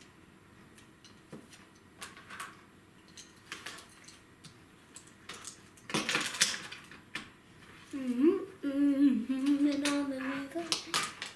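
Small plastic clicks and rattles of Lego bricks being handled and pressed together, with a louder clatter about six seconds in. From about eight seconds a child hums a steady, mostly level note for about three seconds.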